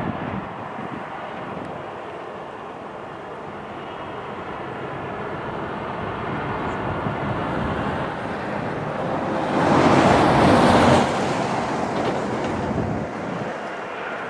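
Union Pacific double-stack intermodal freight train rolling past at a distance, a steady rumble of locomotive engines and wheels on rail. A louder rush of noise lasts about a second and a half, about ten seconds in.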